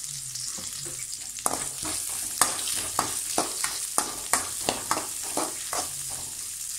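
Freshly added chopped onions sizzling in hot oil in a metal kadai. From about a second and a half in, a spatula scrapes and stirs against the pan a few strokes a second.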